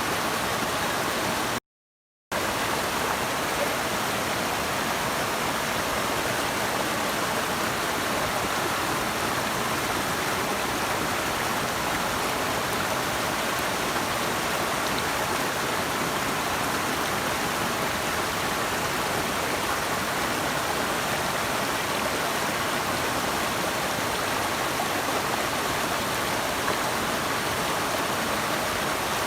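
Steady rushing water of a river or waterfall, an even hiss without distinct splashes. The sound cuts out completely for about half a second roughly two seconds in, then resumes unchanged.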